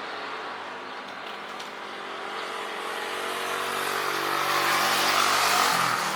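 A motor vehicle passing close by: its engine and tyre noise grow louder over a few seconds, peak near the end, and the engine note drops in pitch as it goes past.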